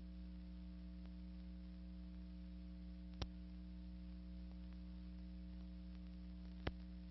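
Steady electrical hum and faint hiss of an old 1950 film soundtrack, with two sharp clicks about three seconds in and again near the end.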